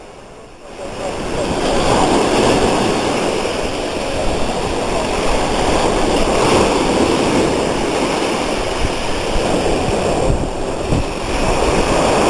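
Sea waves washing onto the shore, swelling and easing every few seconds. The sound rises in over the first second or two.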